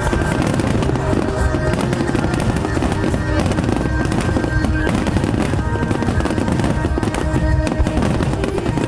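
Fireworks finale: a dense, continuous barrage of bursts and crackling, with music playing underneath.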